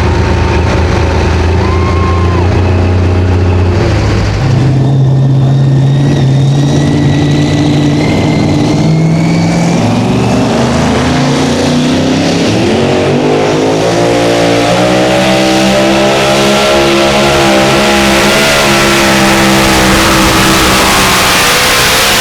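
Heavily modified pulling engine running hard at full throttle under load. Its pitch steps up about four seconds in and climbs again about halfway through.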